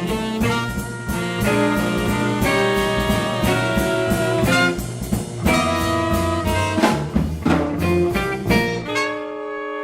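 Live small-group jazz blues played by a sextet of alto or baritone saxophone, tenor saxophone, trumpet, guitar, bass and drums, with horn lines over a swinging rhythm section. About nine seconds in, the drums and bass drop away and the band holds a long sustained chord.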